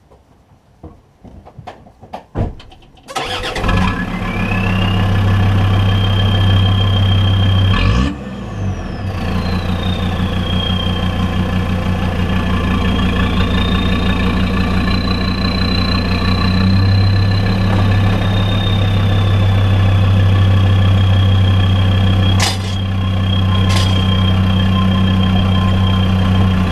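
Land Rover Discovery 2 TD5's 2.5-litre five-cylinder turbo diesel starts about three seconds in and runs, heard close to the exhaust under the car, which has its rear box cut off and a turned-down elbow. Over the diesel note a high, steady turbo whistle sets in, sweeps down in pitch once about eight seconds in, then holds; two sharp clicks come near the end.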